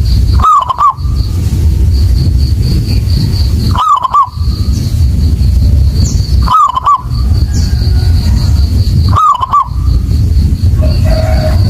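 Zebra dove (perkutut) cooing: a short phrase of quick, looping notes repeated four times, about every two and a half seconds. A steady low rumble runs underneath.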